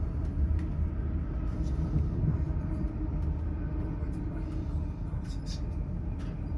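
Steady low rumble of a Great Western Railway Class 800 train running, as heard on board, with faint light ticks and rattles over it.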